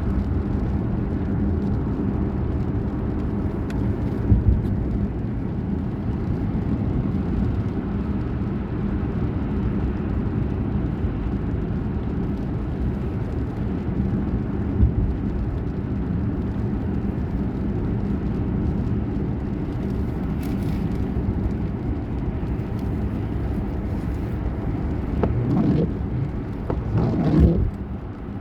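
Steady low rumble of a motor vehicle running, with a couple of short knocks and two rising glides in pitch near the end.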